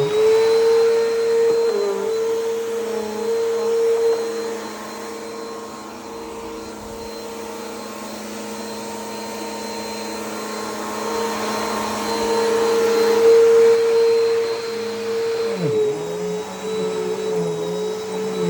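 Bissell PowerForce Helix upright vacuum cleaner running on carpet with a steady motor whine. It gets quieter through the middle and louder again, and its pitch dips briefly about three-quarters of the way through.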